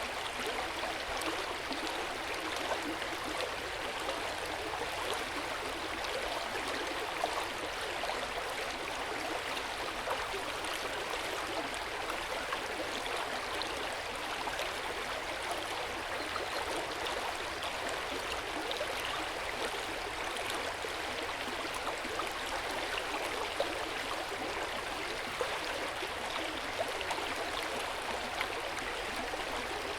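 Hot-spring water flowing steadily into an open-air bath: a gentle, continuous sound of running water with small irregular splashes.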